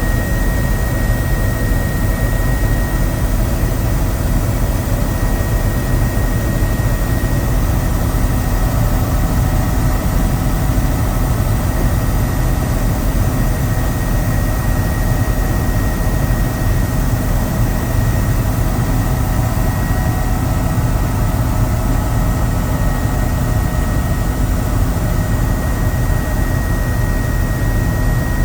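Helicopter's turbine engine and rotor running steadily in flight: a constant broad roar with a thin high whine over it.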